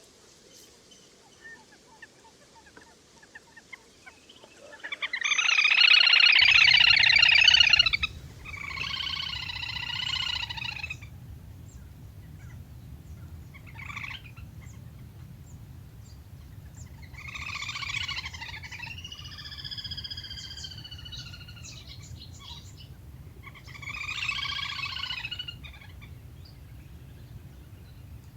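A series of about six loud, trilled bird calls, the le le hôi waterbird played as a hunting lure. Each call lasts one to three seconds, with short gaps between them, and the loudest comes about five seconds in. A steady low hum from the recording runs under the calls from about six seconds in.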